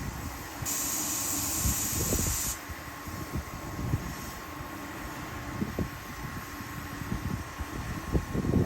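Electric train at a station platform letting off a hiss of compressed air for about two seconds, beginning about a second in, over a steady hum and uneven low rumbling.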